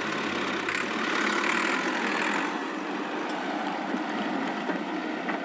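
Small electric motor of a homemade model tractor running steadily, easing off slightly near the end.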